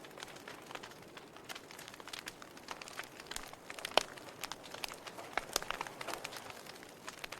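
Wood fire crackling in a fireplace: a soft steady hiss with irregular sharp pops and snaps, the loudest about four seconds in.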